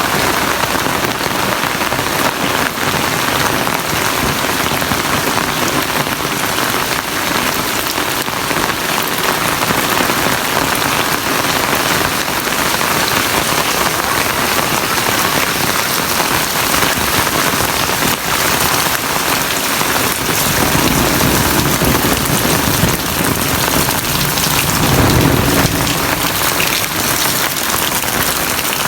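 Heavy rain falling steadily, an even downpour, with a low rumble swelling in the last third.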